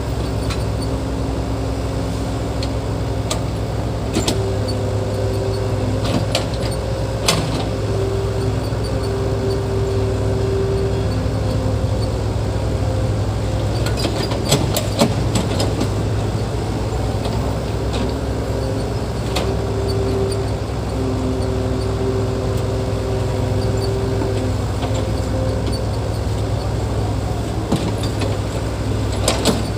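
Heavy earthmoving machine's diesel engine running steadily with a deep rumble, a higher whine coming and going over it, and scattered metallic clanks.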